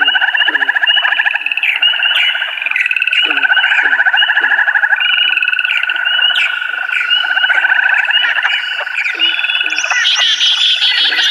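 A dense chorus of many animals calling at once: overlapping rapid pulsed trills with short low croak-like notes throughout, joined by higher chirps near the end.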